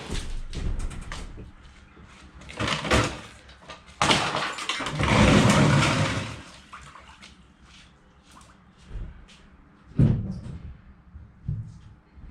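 Knocks and clatters of scrap being handled and pulled out, with a longer rushing scrape of about two seconds around four seconds in.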